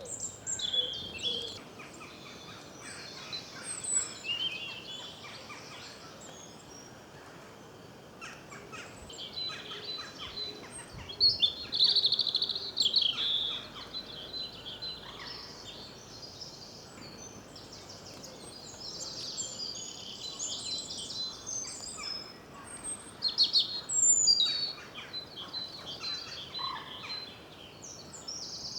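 Several wild birds singing and calling, with overlapping chirps, trills and song phrases. The loudest phrases come about eleven to thirteen seconds in and again about twenty-four seconds in.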